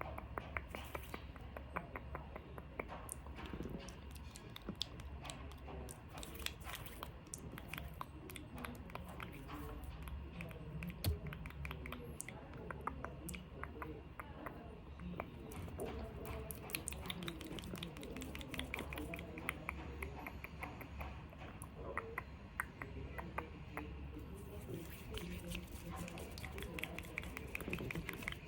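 Close-miked ASMR handling of small objects: a dense run of small clicks and crackles, over a steady low hum.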